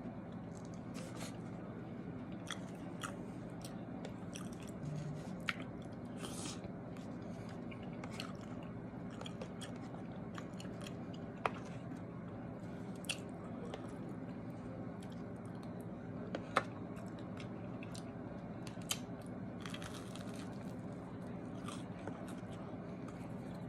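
A person chewing and eating close to the microphone: scattered wet mouth clicks and smacks over a steady low background hum.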